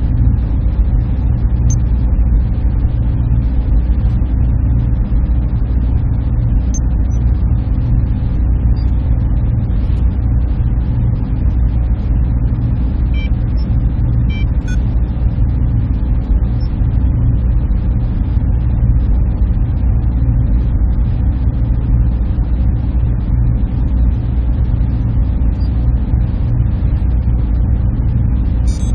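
Server room (machine room) ambience: a steady, unbroken low drone of running machinery, its weight in a deep hum, with a few faint ticks midway and near the end.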